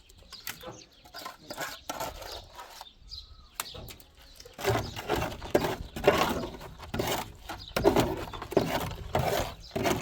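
Trowel scraping and slapping wet cement plaster onto a wall in short, irregular strokes that grow louder and more frequent about halfway through.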